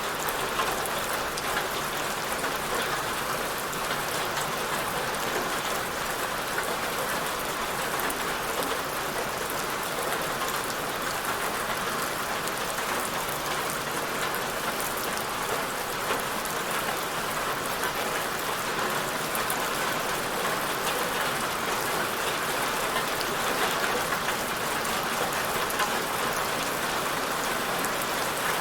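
Steady rain falling on a surface, an even hiss of spattering drops with faint scattered patters.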